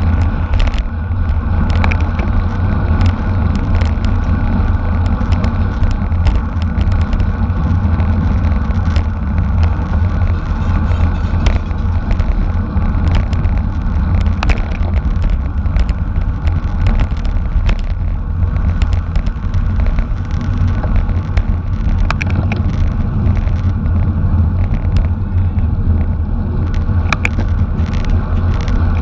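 Steady low rumble of wind and road noise from a camera riding along in a bicycle race, with scattered light clicks and knocks throughout.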